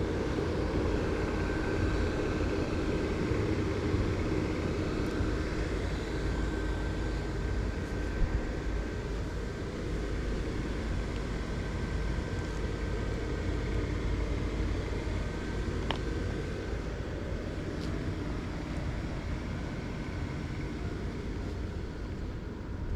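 Steady low rumble of a car, with a faint steady whine over it.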